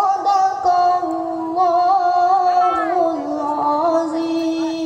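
Music with a melodic singing voice holding long, ornamented notes over a steady held lower tone, starting abruptly.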